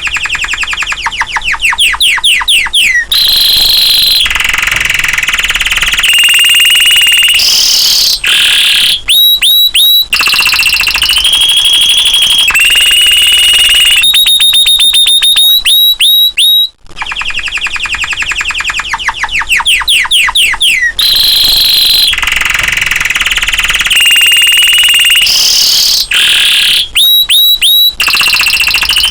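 Domestic canary singing a loud, continuous song: rapid trills and rolls, fast falling sweeps, and long steady high whistled tones, with the same sequence of phrases coming round again after about 17 seconds.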